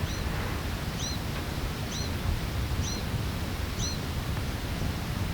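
Ash-breasted sierra finch calling a short arched note over and over, about once a second, over a steady low rumble of background noise.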